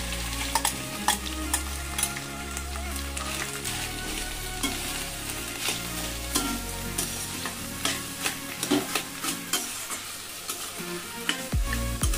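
Ground cauliflower paste frying in ghee in a stainless steel pan, with a steady sizzle under frequent scraping clicks as a steel spatula stirs it against the pan.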